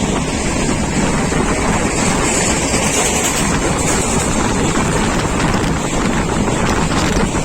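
Express train running at speed, heard from on board: a steady rush of wind on the microphone over loud wheel and track noise.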